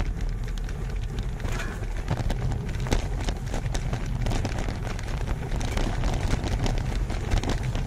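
Creek water rushing over a crossing, a steady low rumble dotted with many short splashes and knocks.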